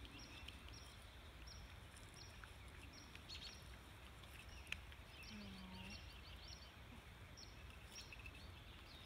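Faint birdsong outdoors: a short high note repeated about every second, with scattered chirps, over a low steady rumble. A single click sounds about halfway through.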